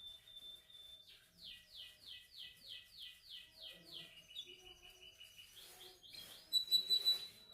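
Male canary singing: a held high whistled note, then a fast run of repeated down-slurred notes at about four a second, then a lower buzzy trill, with a louder, harsher passage near the end.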